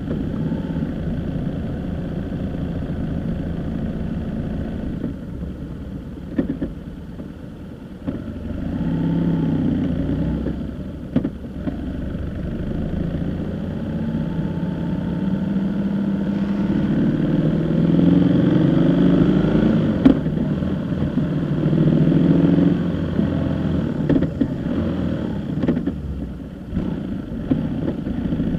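Vehicle engine running under way, its pitch and loudness rising and falling as it speeds up and eases off, over road noise.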